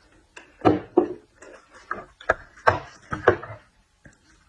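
Close-up eating sounds of seafood: a string of irregular sharp crunches, clicks and mouth smacks, about a dozen in quick succession.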